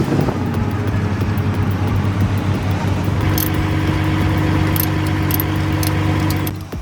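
A heavy vehicle's engine running steadily under load, with a higher steady tone joining about three seconds in, then cutting off suddenly near the end.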